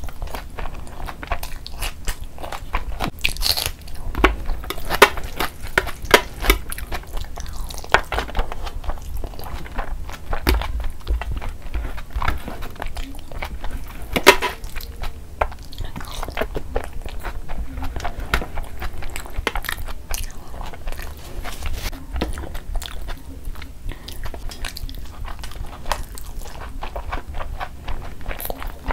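Close-miked chewing of large hand-fed mouthfuls of mutton kabsa rice and meat: a dense, irregular run of wet mouth clicks and smacks.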